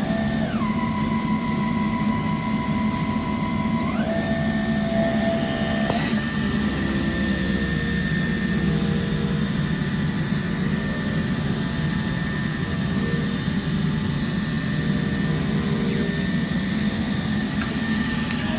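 Automatic cutting machine running with a steady rushing noise and a whine. A motor tone drops in pitch within the first second, holds, and climbs back about four seconds in. A single click comes about six seconds in.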